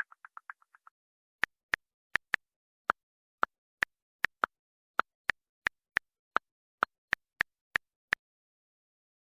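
Smartphone on-screen keyboard key clicks as a chat message is typed: about twenty sharp taps at an uneven pace, starting about a second and a half in and stopping about a second before the end.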